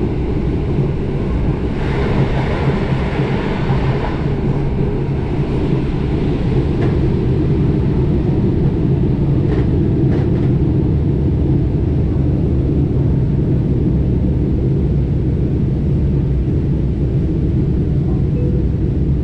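Electric commuter train of the Tricity SKM heard from inside the carriage, running along the track with a steady low rumble of wheels on rail. A brief hiss rises about two seconds in, and two faint clicks come near the middle.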